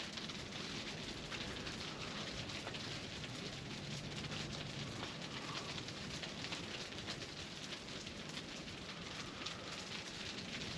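Steady rain falling, with many fine drops pattering.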